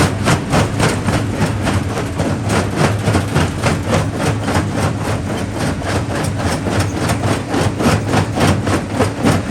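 Jaw rock crusher running, with a steady low drone under a quick, even knocking of about four to five strokes a second.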